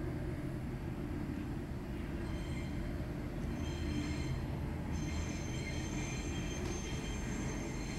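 A Tobu Isesaki Line train running on the elevated track below, with a steady low rumble. About two seconds in, high steady wheel squeal joins and grows stronger about halfway through.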